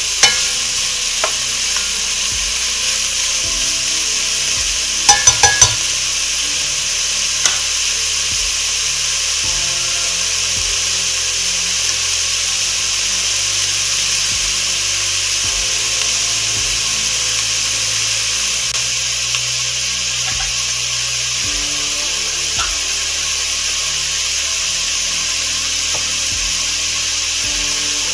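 Food sizzling steadily as it fries in a pot, with four quick knocks about five seconds in and a few single clicks, likely a utensil against the pot.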